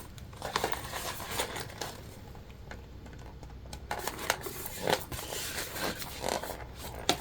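Quiet handling noises from jelly vinyl bag pieces being folded and lined up: soft rustles and scattered light clicks, with a quieter stretch a little before the middle.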